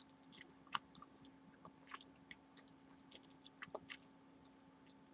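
Gum being chewed close to the microphone: faint, irregular wet mouth clicks and smacks, a couple every second, over a low steady hum.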